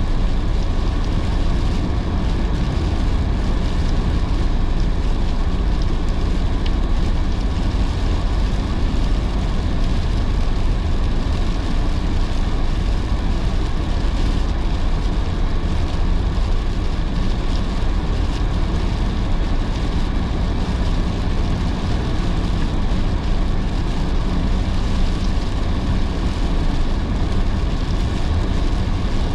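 Car driving on a wet road in heavy rain: steady tyre and road noise mixed with rain.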